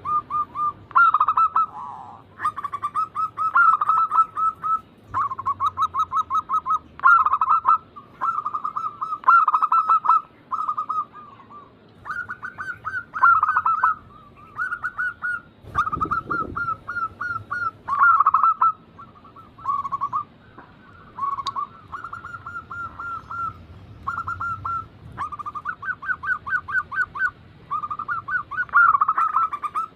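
Several zebra doves (perkutut) cooing in overlapping phrases of rapid, stuttering pulsed notes, one phrase running into the next. There is a low thump about sixteen seconds in.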